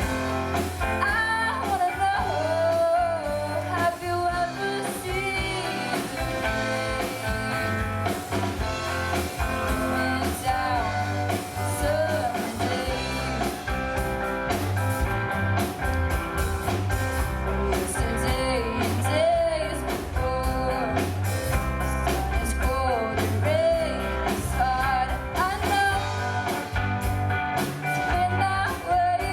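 Live rock band playing a song with a lead singer over electric guitar, bass and drums.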